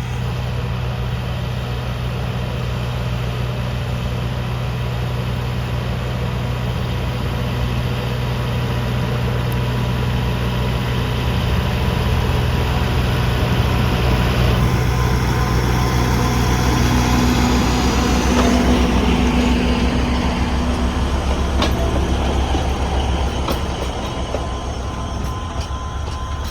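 Alishan Forest Railway diesel locomotive DL-47 running with its train, a steady low engine hum that grows louder from about halfway through as the train gets under way.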